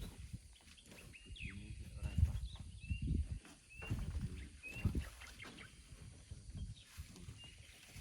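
A bird repeating a short rising chirp about once a second, over irregular low thuds and rustling.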